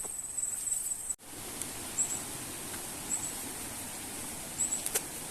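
Insects chirping outdoors, short high-pitched chirps every second or so over a steady hiss of forest ambience. The sound drops out briefly about a second in.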